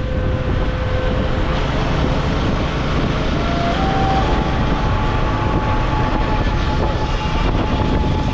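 Motorcycle riding on the road: heavy wind rumble on the microphone over a running engine. The engine's note climbs in steps about three to four seconds in as the revs rise, then holds steady.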